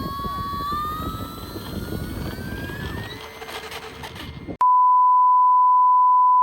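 Electric RC airplane's brushless motor and three-blade propeller whining, its pitch rising as the plane takes off, with wind noise over it. About four and a half seconds in, all other sound cuts out for a loud, steady, single-pitched beep lasting about two seconds.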